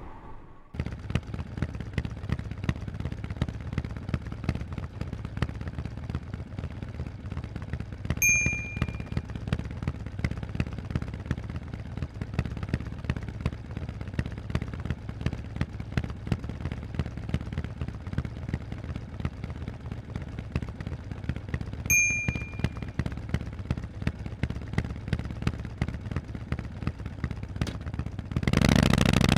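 Harley-Davidson Forty-Eight's air-cooled 1200 cc V-twin idling through Vance & Hines exhausts, a steady low pulsing rumble. Two short high-pitched dings sound about fourteen seconds apart, and near the end the engine gets much louder as it is revved.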